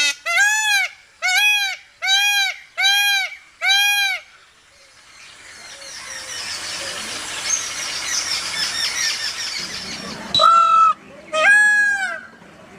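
Indian peafowl (peacock) calling loudly: five calls in quick succession, a little under one a second, then after a pause filled with small birds chirping, two more calls near the end.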